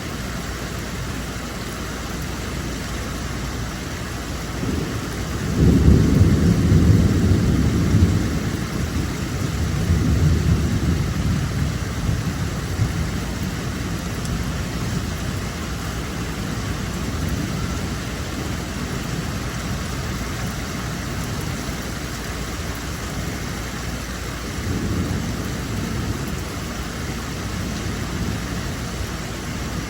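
Steady rain falling, with a long roll of thunder rumbling up about five seconds in and dying away over several seconds, and a fainter rumble later.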